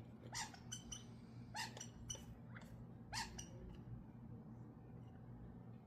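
A dog whimpering: a few short, high whines spaced a second or so apart, over a low steady hum.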